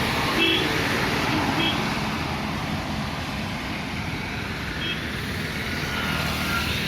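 Steady wash of rain and traffic on wet roads, with a few short, faint high chirps near the start and about five seconds in.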